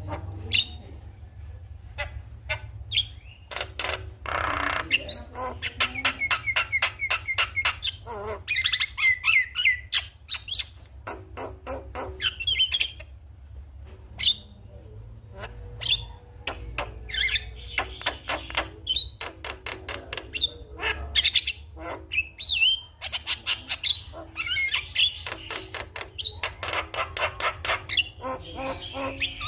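Javan myna singing: fast runs of dry clicks mixed with squeaky chirps and whistles, in spells of a few seconds with short gaps between, over a steady low hum.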